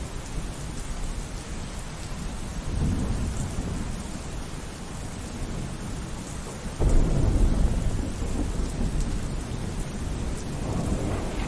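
Steady rainfall with rolling thunder. A faint low rumble comes about three seconds in, a louder rumble breaks in suddenly around seven seconds and rolls on, and another swells near the end.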